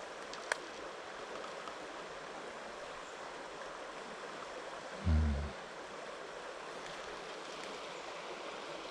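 Mountain stream running low, flowing with a steady rush of water. A brief low thump comes about five seconds in.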